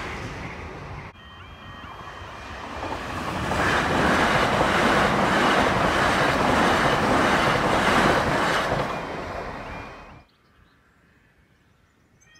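A Southern multiple-unit passenger train passing over a level crossing: its rumble and wheel noise build up, run loud for several seconds and cut off abruptly about ten seconds in. From about a second in, the crossing's warning alarm sounds in repeating high tones above the train noise.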